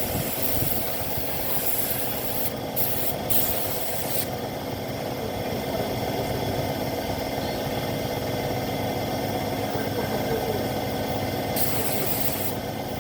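Paint spray gun hissing in trigger-pulled bursts as motorcycle body panels are sprayed: on for the first few seconds with two short breaks, then again briefly near the end. A steady motor hum runs underneath.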